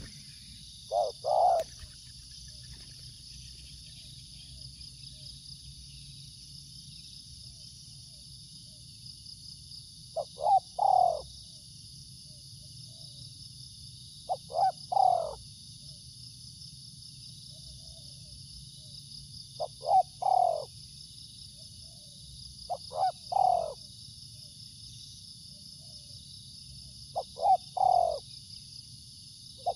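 Spotted dove cooing: a short phrase of two or three low coos, given six times at gaps of several seconds. A steady high-pitched buzz runs underneath.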